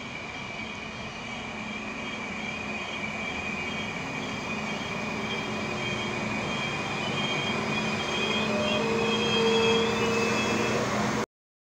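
Diesel multiple unit SA134 pulling into a station, its engine and running noise growing steadily louder as it draws alongside. A high steady brake squeal rides over it as it slows, with a lower squealing tone joining about nine seconds in. The sound cuts off suddenly just before the end.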